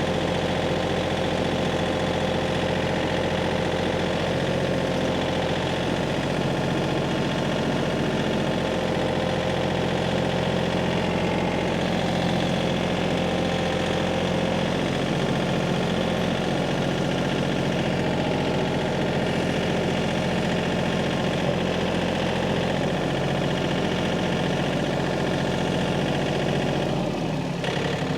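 Tractor engine running steadily at a constant speed, with a change in its note about a second before the end.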